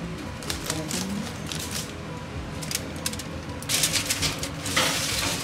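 Foil-wrapped baking pan being slid into an oven onto the wire rack: scattered clicks of metal on the rack, then louder scraping and crinkling of the foil near the end.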